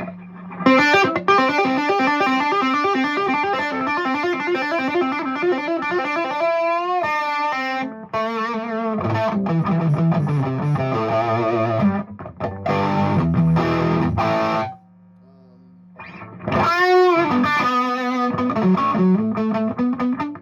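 Electric guitar, a Gibson Les Paul Standard played through a Fuchs Train-45 tube amp with 6V6 power tubes: fast picked runs and riffs with string bends and wide vibrato. About fifteen seconds in the playing stops for a second or so, leaving a steady amp hum, then resumes with a bent, shaking note.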